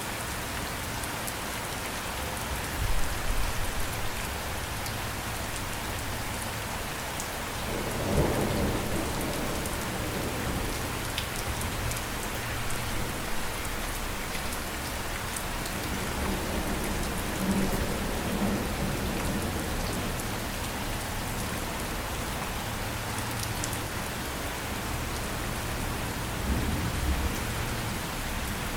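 Steady rain hiss, with several low rumbles swelling and fading, the strongest about eight seconds in.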